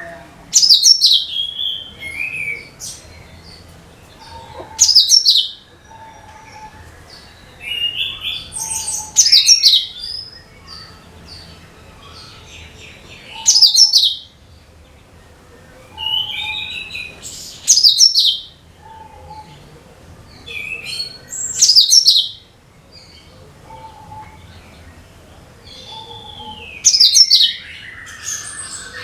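Cucak kinoi singing: short, loud bursts of high chirping song that fall in pitch, repeated every two to four seconds, with softer lower chirps in between.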